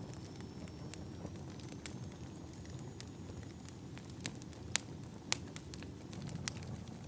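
Wood fire crackling in a fireplace: irregular sharp pops and snaps over a low, steady rumble of burning logs, with the loudest pops a little past the middle.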